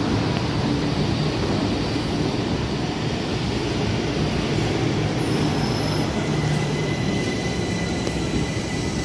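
Southern passenger train running, a steady rumble and hiss of wheels on rail, with a faint high whine coming in about halfway through.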